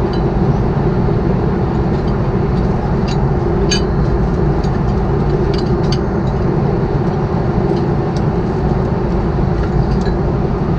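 Steady cabin noise inside an Airbus A330-300 airliner: the drone of the engines and airflow, with a few faint clicks over it.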